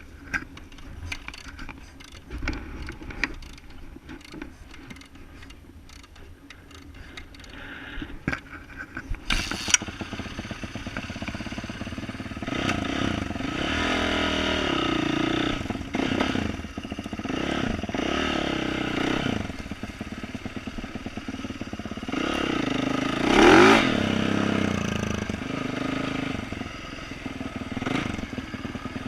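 A 2012 Yamaha YZ450F's 450 cc single-cylinder four-stroke engine, through an aftermarket exhaust. The first part is quiet, with scattered clicks and ticks. After a sharp clack about nine seconds in, the engine comes up and revs in repeated rising and falling sweeps as the bike is ridden, with the loudest rev a little past twenty seconds in.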